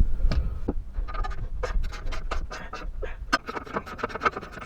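A run of irregular clicks and scrapes, several a second, from tools and metal parts being worked under a pickup truck, over a low steady rumble.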